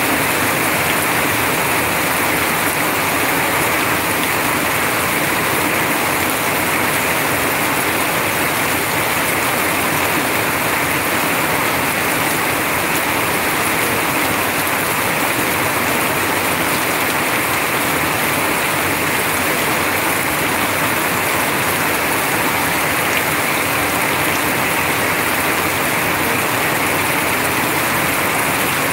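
Heavy rain pouring down in a steady, unbroken rush, with water streaming off a roof edge close by.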